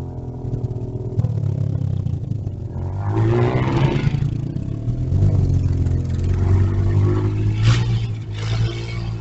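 Petrol engine running steadily, revved up twice: once about three seconds in and again in the second half.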